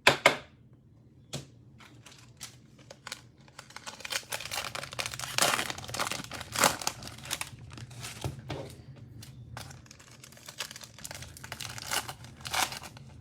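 Cellophane wrapper of a football card cello pack being torn open and crinkled. A sharp knock comes right at the start, and the crinkling thickens from about four seconds in.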